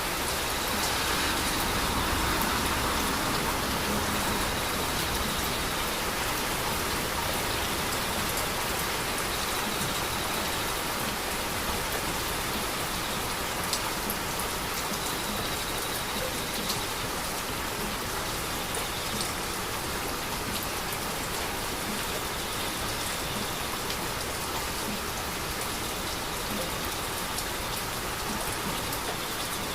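Heavy rain falling steadily: a constant hiss of rain on surfaces, with now and then a sharper single drop hit.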